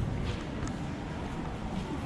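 Outdoor urban ambience: a steady low rumble with a faint short bird chirp about two-thirds of a second in.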